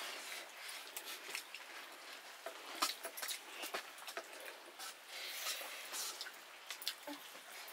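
Close eating sounds of a person chewing rice and chicken curry: wet chewing and irregular lip-smacking clicks.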